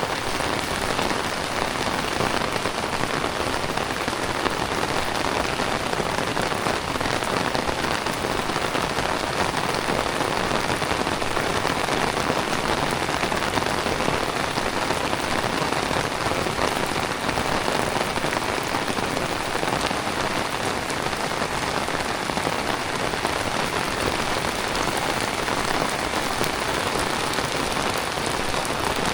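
Heavy tropical rain falling steadily, a dense even patter of drops on the ground and surfaces.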